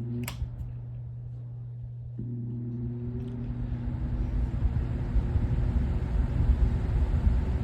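Aerospeed BX100 20-inch box fan starting up: switch clicks over a steady electrical motor hum, then about two seconds in the motor spins up with a rising whir and a growing rush of air from the blades. The switch is broken and will not stay on low speed.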